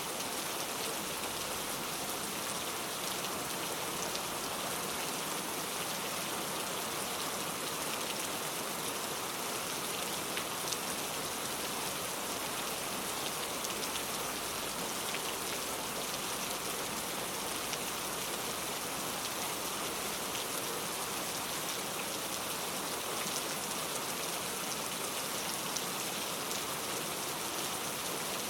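Steady rain falling, an even hiss with scattered individual drops ticking on a surface, no thunder.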